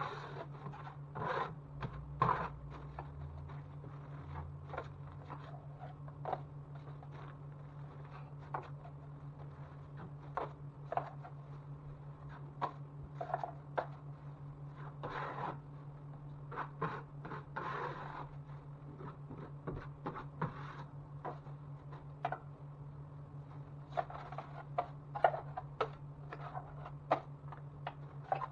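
Hand work on drywall: irregular scrapes and light knocks over a steady low hum.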